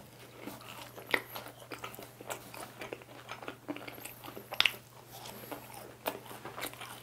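Crunching and chewing of crispy, sauce-coated bite-size fried chicken eaten off a skewer, in irregular crisp crunches, with a louder crunch about a second in and another about four and a half seconds in.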